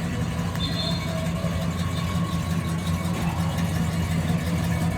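Buick GS 455's big-block V8 engine running steadily at low speed as the car rolls slowly past, a low, even rumble.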